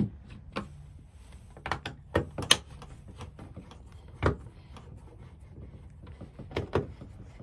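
Irregular sharp clicks and knocks of hard parts being handled while a rear-projection TV is taken apart, about eight in all, with a cluster of the loudest a couple of seconds in.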